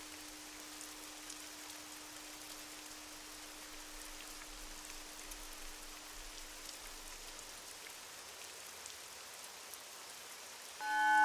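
Steady rain falling, with scattered drops, under a faint lingering bowl tone that fades away. Near the end a Tibetan singing bowl is struck and rings loudly with several steady overtones.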